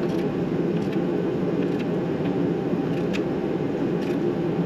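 Steady low drone of a running machine, even in level throughout, with about five short, sharp clicks of hand tools as bolts are tightened.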